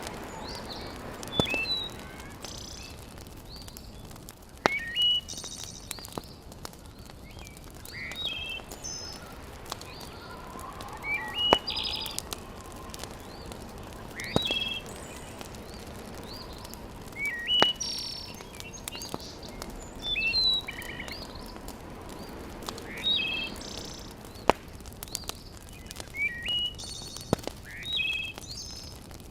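A fireplace fire crackling with sharp single pops every few seconds. A bird calls over it, repeating short high chirped phrases.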